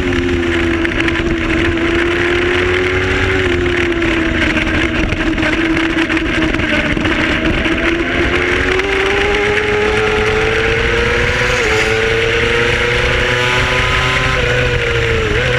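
Racing motorcycle engine at high revs, its pitch sagging, holding and then climbing with the throttle, with short steps in pitch near the end as it changes gear, over a steady rush of wind noise.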